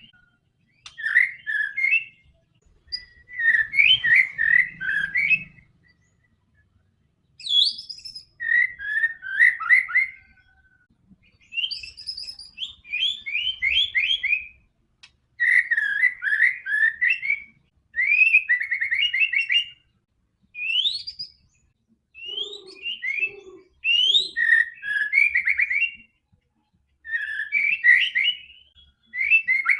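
White-rumped shama (murai batu) in full song: bursts of rapid whistled and chattering phrases, each a second or two long, with short pauses between.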